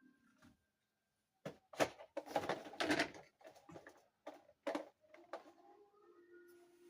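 Small plastic dollhouse furniture pieces and packaging being handled: a quick run of clicks, taps and rustling, loudest a couple of seconds in. Near the end a faint squeak, like plastic rubbing on plastic, holds for about a second and a half.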